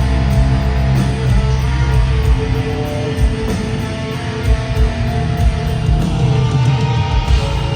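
Heavy metal band playing live and loud: electric guitars over bass and drums.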